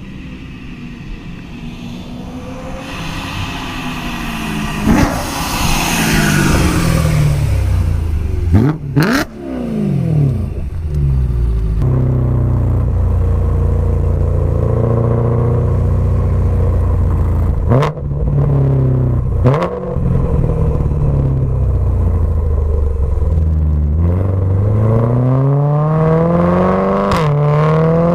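Supercharged BMW M3 V8 through a Remus Race exhaust, revving up and down under throttle. There are a few sharp cracks as the revs change, a steadier stretch in the middle, and the engine pitch climbs again near the end.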